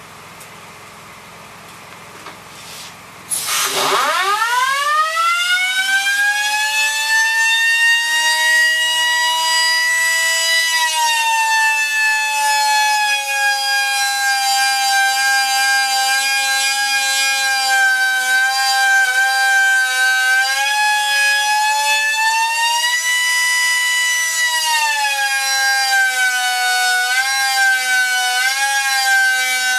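A pipe-lining reinstatement cutter's motor starts about three seconds in, its whine gliding up in pitch over a few seconds, then running steadily at high speed with small dips in pitch and a wavering pitch near the end. A low steady hum comes before it starts.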